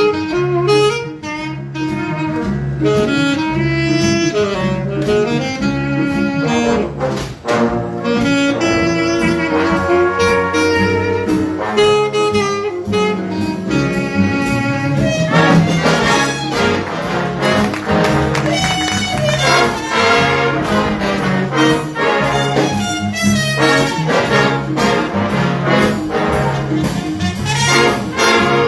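High school jazz big band playing a swing tune: saxophones, trumpets and trombones over a walking bass pulse, with a short break about seven seconds in.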